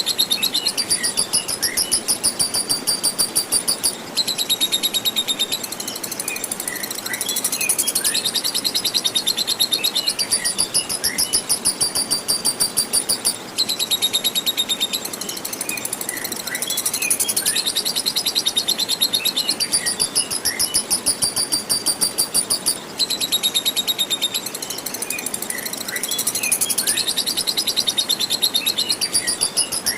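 Lovebird in long 'ngekek' song: a high, very rapid chattering trill of many notes a second, sung in long bouts broken by short pauses about every nine seconds. It sits over a steady rush of flowing water, with scattered short lower chirps.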